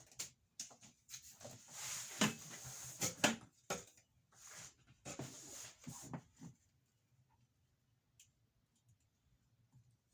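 Handling noises: irregular scraping, rustling and clicks of objects being moved and worked, stopping about six and a half seconds in.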